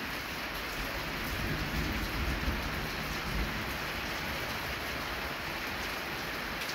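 Steady rain falling on a parked car and the ground around it, with a low rumble underneath that is strongest in the middle.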